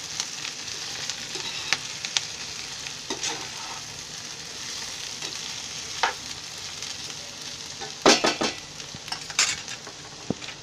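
Chopped ivy gourd sizzling in oil in a non-stick frying pan, stirred with a spatula that clicks and scrapes against the pan; the gourd is being softened in oil alone, before any water goes in. A few louder knocks of the spatula on the pan come near the end.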